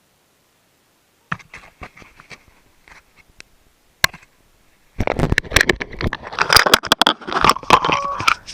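Mountain bike clattering over rough downhill trail, picked up by a camera mounted on the bike or rider: light chain and frame clicks from about a second in, then a dense run of loud knocks, rattles and scrapes from about five seconds in.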